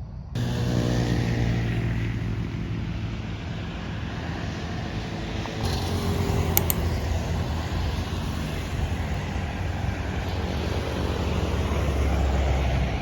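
A motor vehicle's engine running close by with steady road and traffic noise, starting abruptly just after the start and shifting in character about halfway through.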